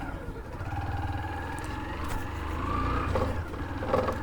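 Motorcycle engine running as the bike rides off, with a brief rise in pitch partway through.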